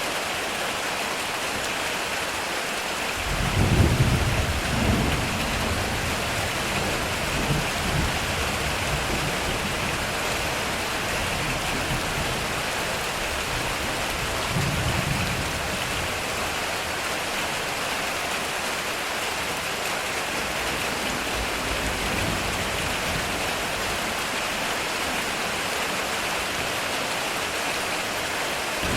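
Heavy rain falling steadily on a metal roof. A thunder rumble builds about three seconds in and rolls on for several seconds, and a weaker rumble follows about halfway through.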